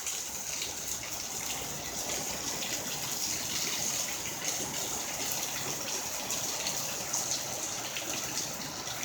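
Heavy rain falling steadily, a dense even hiss with small scattered patters of drops.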